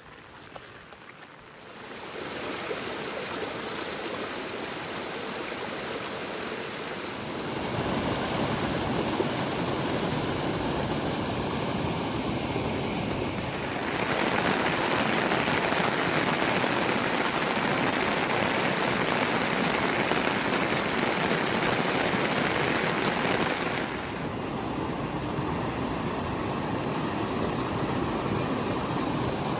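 Heavy rain: a steady rushing noise of falling and running water. It gets louder in steps about two, seven and fourteen seconds in, and eases back near twenty-four seconds.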